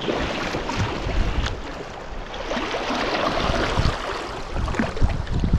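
River water rushing and splashing around a kayak on the water, with wind rumbling on the microphone and a few low thumps near the end.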